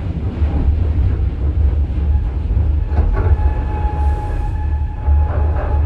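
Interior running sound of a Nose Electric Railway 5100 series electric train moving slowly: a steady deep rumble with wheels clacking over the track about three seconds in and again near the end, and a steady whine joining in the second half.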